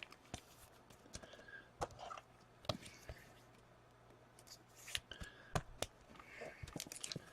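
Trading cards being handled at a table: faint scattered clicks, taps and light slides of card stock.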